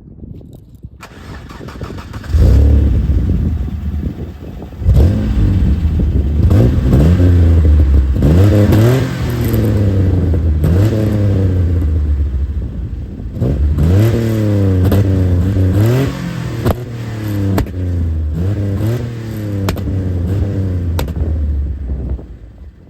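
A 1990 Ford Sierra's swapped-in 2.9 Cologne V6 is revved again and again through a Remus muffler and modified resonator, the pitch climbing and dropping with each blip of the throttle. Sharp pops and bangs sound from the exhaust between the revs, from ignition that has been adjusted to make it backfire.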